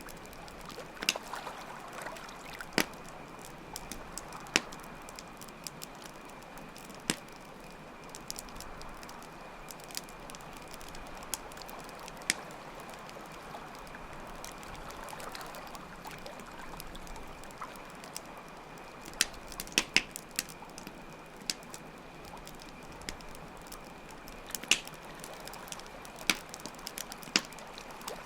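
Campfire crackling, with irregular sharp pops, over a steady wash of flowing water. A steady high chirring of crickets runs beneath.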